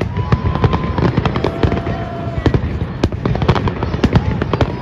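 Fireworks display: aerial shells bursting in quick succession, a rapid run of sharp bangs and crackles over a continuous low rumble.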